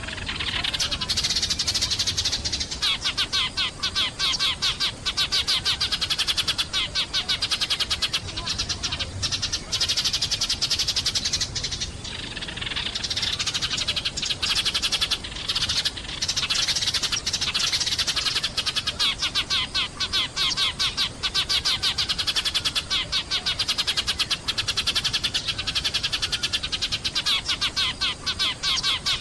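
Sparrows chirping in a fast, dense, continuous chatter of many short chirps a second, with a couple of brief lulls partway through.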